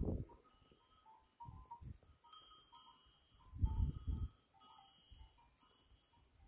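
Bells on a grazing flock of goats and sheep clinking irregularly, with two low rumbles about a second and a half and nearly four seconds in.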